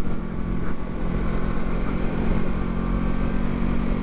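Yamaha YZF-R3 parallel-twin engine running at a steady speed under way, with low wind rumble on the microphone.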